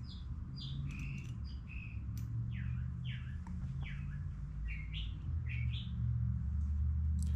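A songbird chirping a quick run of short, sweeping notes, some falling and some rising, over a steady low hum.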